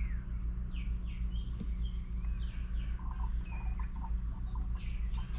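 Small birds chirping over and over in short, quick, falling chirps, over a steady low hum.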